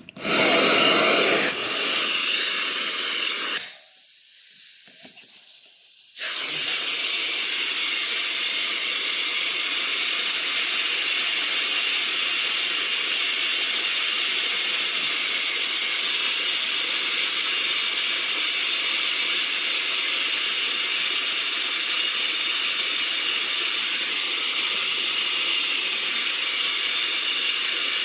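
Central vacuum suction hissing at a wall outlet during a working water lift test, with air rushing through the gauge. The hiss dips and thins for about two seconds partway through, then holds steady and loud.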